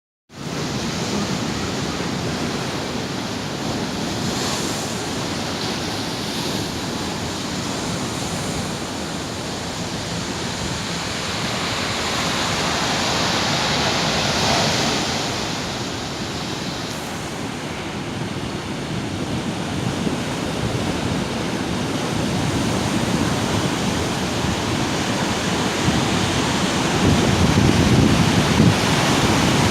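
Atlantic surf breaking and washing on the shore, a continuous rush of water with a louder, deeper surge of a wave near the end, and wind buffeting the microphone.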